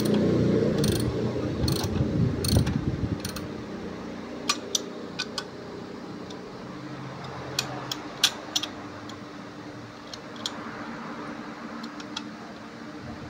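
Hand tools and metal parts clicking and clinking during work on a dual-clutch transmission: a run of evenly spaced clicks over a low hum for the first few seconds, then scattered sharp metallic clicks.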